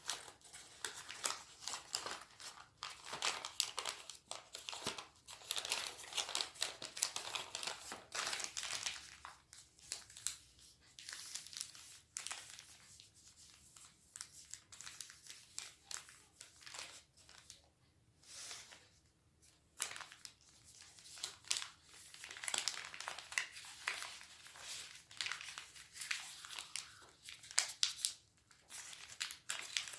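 A sheet of origami paper being folded and creased by hand: quick, irregular crinkling and rustling crackles, busy at first, sparser through the middle, then busy again near the end.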